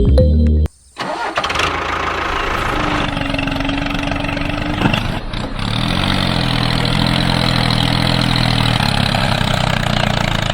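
Background music cuts off, and about a second in a motor starts and keeps running steadily, its pitch shifting a few times.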